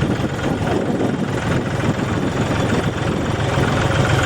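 Tractor engine running steadily, with a strong low rumble.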